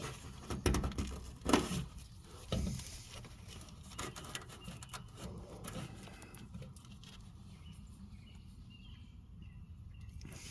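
Scattered light clicks and knocks of hands working under a car, fitting a wiring connector onto a fuel tank sending unit; they die away after about six seconds. Faint bird chirps near the end.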